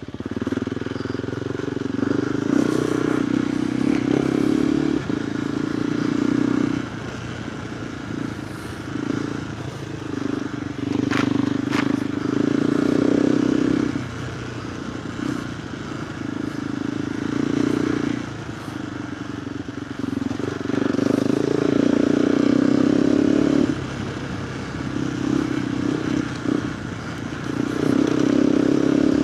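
KTM 390 Adventure R single-cylinder engine through a Norifumi Whoops slip-on exhaust, ridden off-road. It is repeatedly opened up and backed off: loud stretches of a few seconds each alternate with quieter stretches as the throttle comes on and off.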